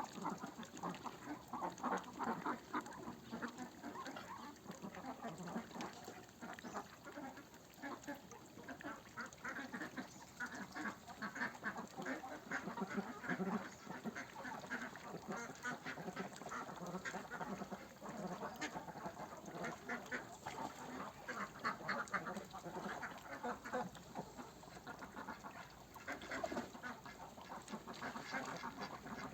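A flock of farmed ducks quacking, many calls overlapping without pause.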